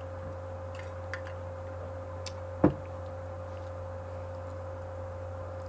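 Steady electrical hum with a low drone and a higher steady tone, a few faint ticks, and one sharp click or knock about two and a half seconds in.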